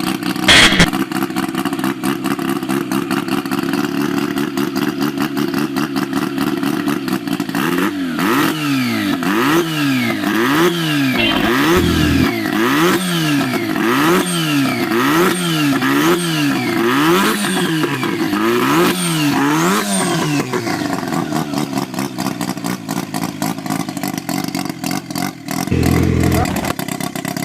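Motorcycle engine running, with a sharp bang just after the start. From about 8 s to 20 s the throttle is blipped repeatedly, the revs rising and falling about once a second, before the engine settles back to a steady note.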